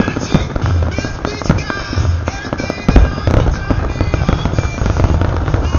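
Aerial firework shells bursting in a rapid barrage, sharp booms and crackle with low rumbling between them. The heaviest boom comes about three seconds in. Music plays underneath.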